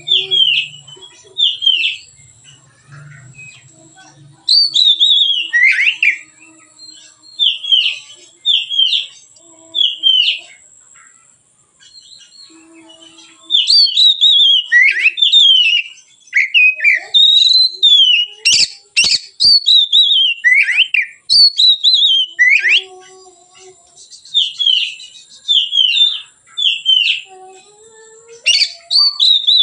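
Oriental magpie-robin singing loud, clear, whistled phrases in quick runs broken by short pauses, with a faint steady high tone behind it.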